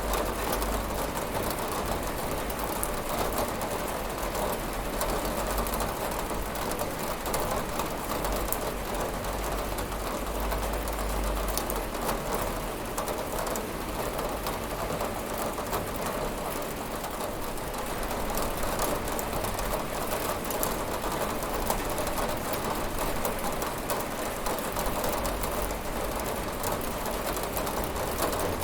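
Steady rain with many small drops ticking on a window pane, over a low, even rumble.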